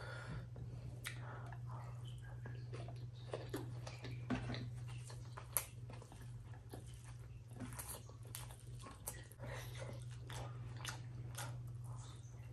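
Close-miked wet chewing of rice and mashed potato (aloo bharta), with sticky squelches of fingers mixing rice on a plate and many small mouth and food clicks, the sharpest about five and a half seconds in. A steady low hum runs underneath.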